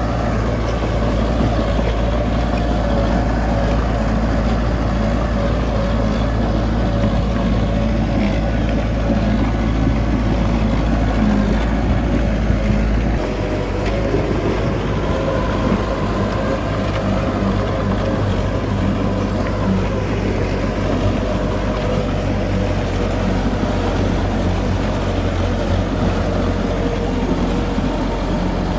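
Heavy diesel earth-moving machinery engine running steadily under load, with its low note changing about thirteen seconds in.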